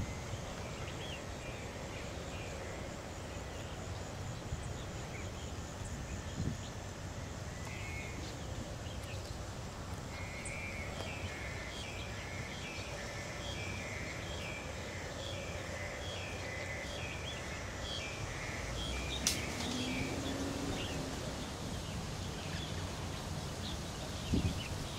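Outdoor field ambience: a bird in the background gives a long run of short repeated chirps, about two a second, through the middle, over a steady low wind rumble. A single sharp click stands out a little after the chirping stops.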